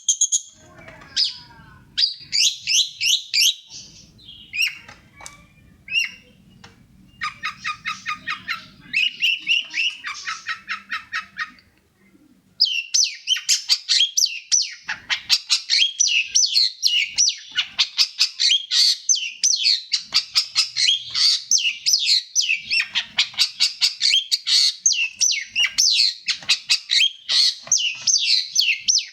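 Long-tailed shrike singing a fast string of rapidly repeated high chattering notes. There is a brief pause about twelve seconds in, then an even denser, unbroken run of quick notes.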